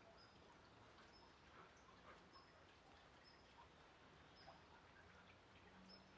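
Near silence: faint outdoor ambience with a short, thin, high chirp repeating about once a second, like a small bird calling.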